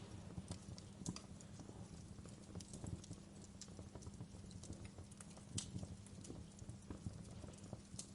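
Wood fire crackling: irregular small pops and snaps over a steady low rumble, with a few sharper pops, the loudest about five and a half seconds in.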